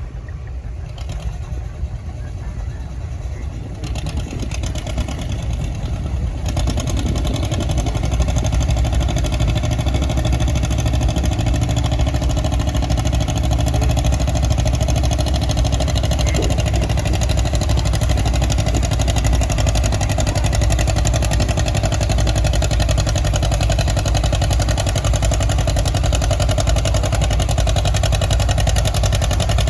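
1953 John Deere 50's two-cylinder engine running hard under load as the tractor pulls the weight sled. It grows louder over the first several seconds, then holds steady.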